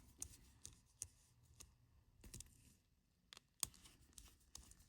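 Faint, scattered small clicks and scrapes of a screwdriver turning the titanium case-back screws of a Casio G-Shock GW-9100 Gulfman, with one sharper click about three and a half seconds in.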